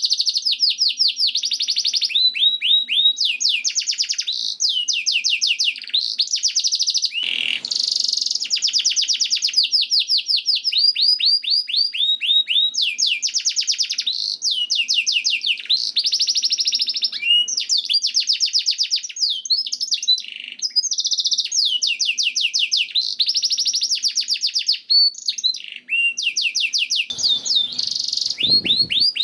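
Domestic canary singing a long, near-continuous song of rapid trills and rolls, each run of quick repeated notes giving way to the next with only short breaks. Two brief rustling noises come through, about seven seconds in and near the end.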